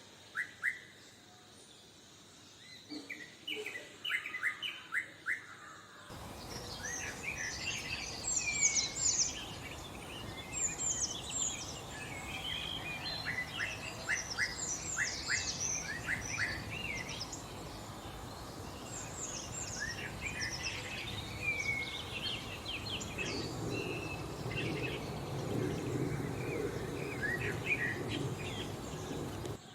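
Songbirds chirping in short, rapid calls, sparse at first. About six seconds in, the sound changes abruptly to a denser chorus of several birds over a steady background hiss. A low rumble joins in during the last few seconds.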